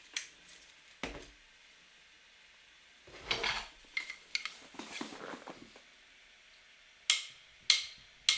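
Scattered clinks and knocks of containers and dishes being handled, a few short clatters with quiet gaps between them.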